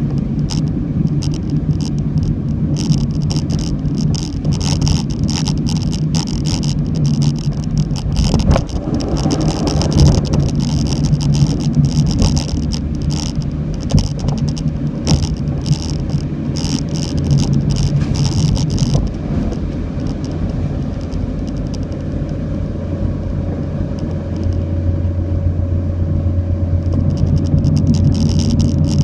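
A car running in typhoon rain: steady engine and road noise, with rain and spray striking the car as dense irregular taps. The taps let up about 19 s in and return near the end, while the engine note steadies into a lower hum.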